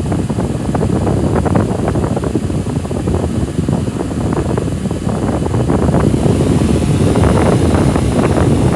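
Holmes One Touch Blizzard 9-inch table fan running, its airflow hitting the microphone as a steady, rough rushing.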